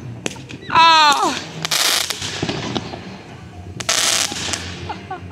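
Consumer aerial fireworks bursting overhead: several sharp bangs, and a longer crackling burst about four seconds in. About a second in, a person's voice gives a loud, falling drawn-out exclamation.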